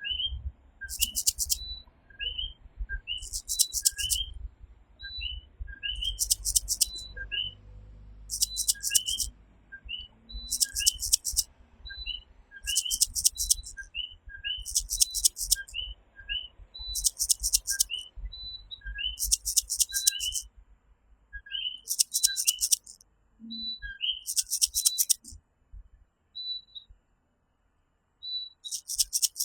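Chorus of common coquí tree frogs, many short two-note "co-kee" calls overlapping and repeating steadily. A louder, high, pulsed trill from another night caller comes back about every second and a half, and a faint low rumble lies under the first half.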